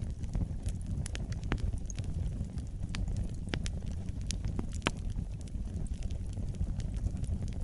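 Wood fire burning in a fireplace: a steady low rumble of flames with irregular sharp crackles and pops, the loudest pop just before five seconds in.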